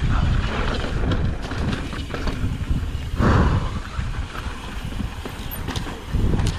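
Mountain bike riding down a dry, loose dirt trail: the knobby tyres rumble and crunch over the dirt while the bike rattles and clatters. There is an uneven rush of wind on the microphone, with a louder surge about three seconds in.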